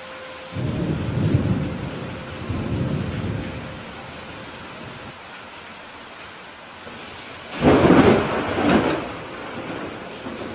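Steady rain falling, with thunder rumbling low in two swells over the first few seconds, then a louder, sharper peal of thunder about eight seconds in.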